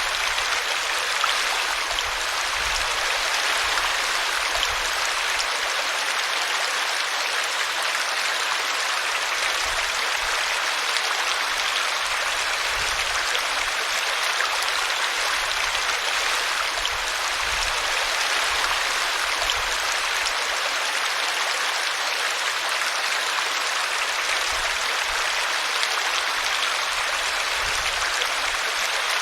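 A small brook's water rushing and babbling steadily as it spills over a tree root.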